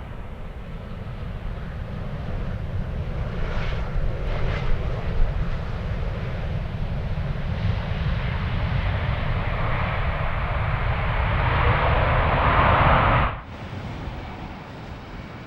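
Jet airliner engine noise growing steadily louder as the aircraft passes, with a deep rumble underneath, then cutting off abruptly about thirteen seconds in, leaving a quieter background.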